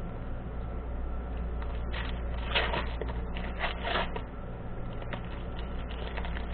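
Quiet handling noises, a few soft scrapes and rustles, over a steady low hum.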